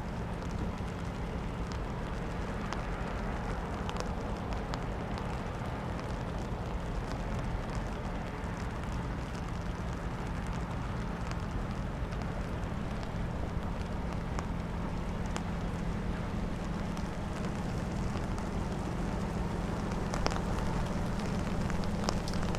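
The engine of a sand-carrying river boat running with a steady low drone, under wind noise and a light patter of rain.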